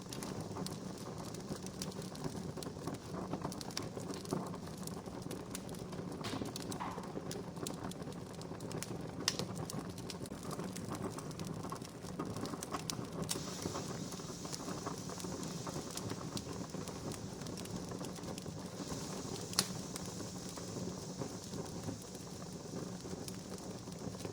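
Wood campfire burning and crackling, with steady small snaps and two louder pops about nine and twenty seconds in. A soft hiss from the fire joins for stretches in the second half.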